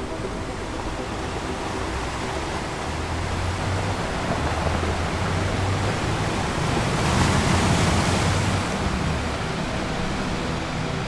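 Ocean surf: waves washing in, one swelling to its loudest about seven seconds in and then easing off. A low steady drone runs beneath it.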